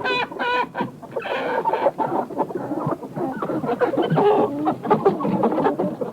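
Chickens clucking, many short calls from several birds overlapping.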